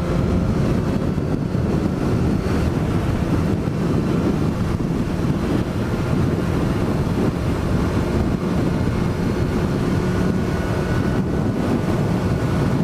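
Suzuki GSX-S1000's inline-four engine running steadily at road speed, with wind rushing over the microphone.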